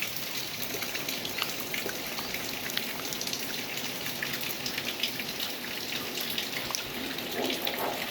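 Rain falling steadily, a dense patter of individual drops ticking on a surface.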